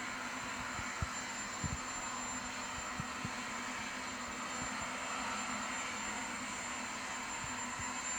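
Marine helicopter's turbine engines running on the ground before lift-off: a steady rushing noise with a low hum and a thin high whine. A few scattered dull low thumps are heard, mostly in the first few seconds.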